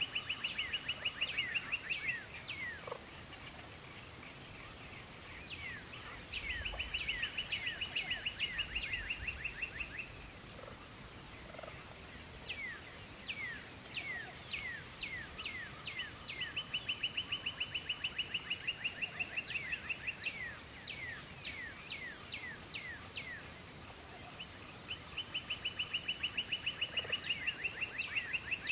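Crickets chirping at twilight as a steady, unbroken high-pitched chorus. Four times a lower call cuts in over it, a level trill that breaks into a run of falling notes.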